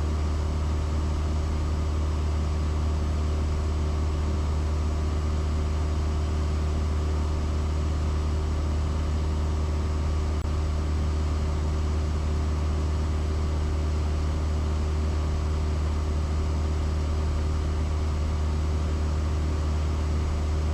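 Cessna 172S's four-cylinder Lycoming engine and propeller droning at a steady cruise power, a constant low hum with no change in pitch.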